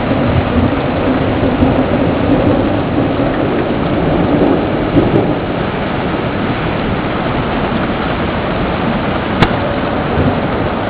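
Thunderstorm: steady rain with thunder rumbling, and a single sharp click near the end.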